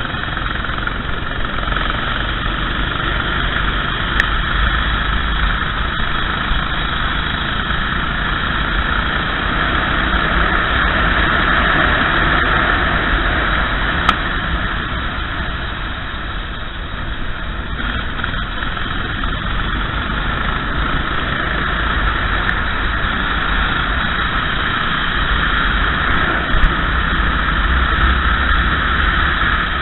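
Racing kart engine running steadily under load, over a continuous low rush of wind and track noise; the engine note eases briefly around the middle and then builds again.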